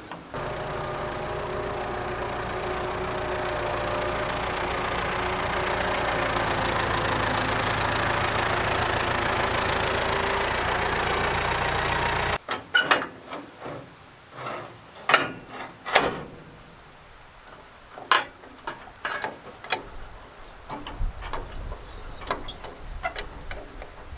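An engine running steadily for about twelve seconds, then cutting off suddenly, followed by scattered sharp knocks and clanks of metal being handled.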